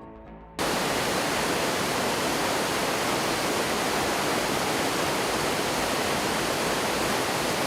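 Steady, loud rush of flowing water, cutting in suddenly about half a second in as a faint music tail ends.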